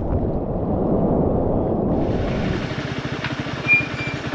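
A muffled low rumble for about two seconds, then a motorcycle engine running at idle with a rapid, even beat; a brief high tone sounds near the end.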